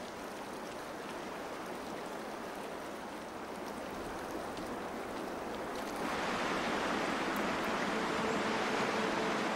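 Steady rush of a salmon stream's flowing water, growing louder about six seconds in.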